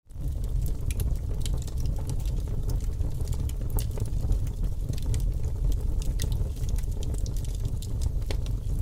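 Fire crackling: a steady low rumble of flames under frequent small snaps and pops. It starts just after a brief silence.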